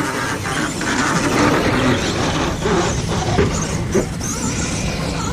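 Radio-controlled scale monster trucks racing: a busy mix of motor and drivetrain noise with a few sharp knocks.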